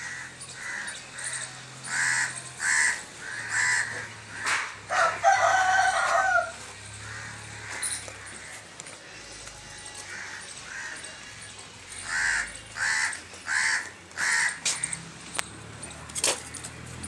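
A rooster crows once, about five seconds in. Around it, birds give short calls in quick runs, roughly two a second, early on and again later.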